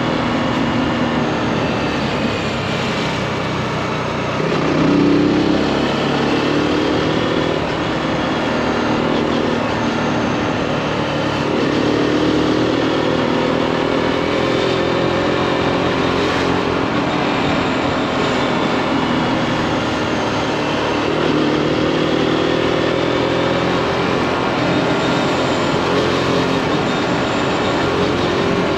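Zontes G1 155 cc single-cylinder four-stroke motorcycle engine running on the road, heard from the rider's seat. Its pitch falls and climbs again three times as the throttle and gears change, over a steady rush of wind.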